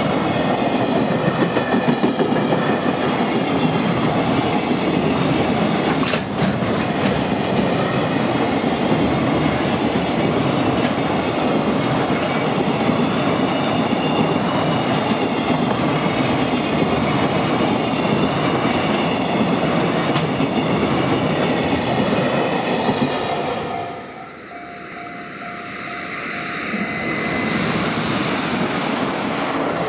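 Container freight wagons rolling past at speed, a steady rushing clatter of wheels over rail joints. About 24 seconds in the sound drops away, and another train's approach builds up again.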